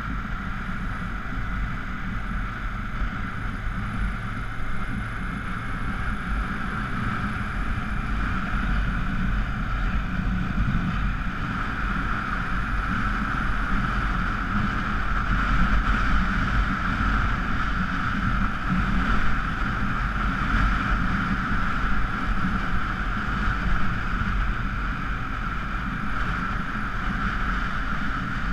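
Honda Africa Twin XRV750's V-twin engine running steadily under way, with wind noise on the bike-mounted camera. It gets a little louder about halfway through.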